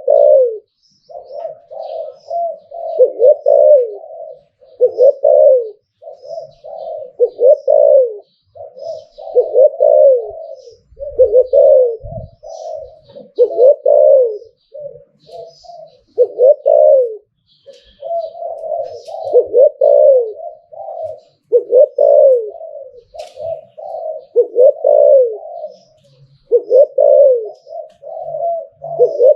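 Spotted dove cooing over and over, a short phrase of coos about every two seconds.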